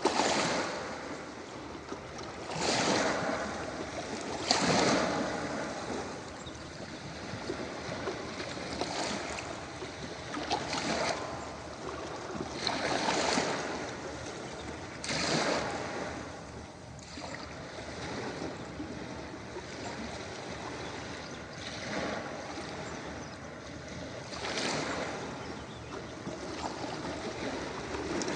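Ocean waves breaking on a beach: a steady wash of surf with a wave cresting and rushing in every two or three seconds, each surge swelling and fading back.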